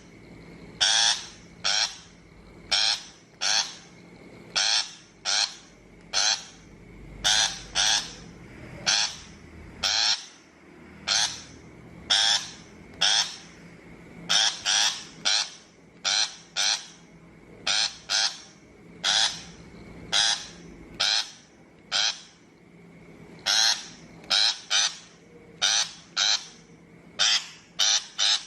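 Shrike giving a long series of short, harsh scolding calls, often in pairs or small groups, about one call a second. It is a recorded call track meant as a trap-speaker lure.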